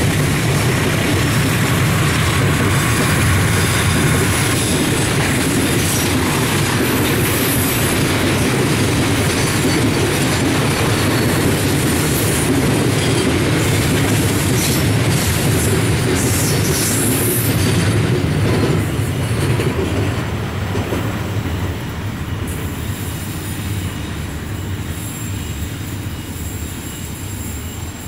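Diesel-hauled freight train of fuel tank wagons rolling past at close range: a steady rumble of wheels on rail with clickety-clack over the rail joints. The sound fades away gradually over the last third as the end of the train passes.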